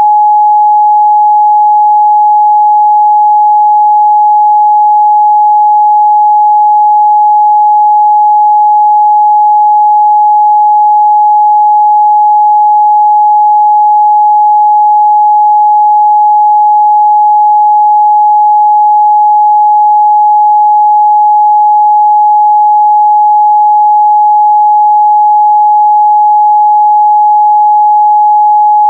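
A steady, loud 841 Hz pure sine-wave test tone, one unchanging pitch with no other sound.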